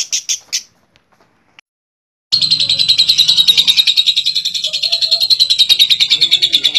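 Lovebird chattering in its long 'ngekek' trill, a fast run of shrill, evenly repeated notes at about eight a second. The trill stops abruptly soon after the start, leaving about a second and a half of silence, then starts again just as abruptly and runs on, with faint lower chirps beneath it.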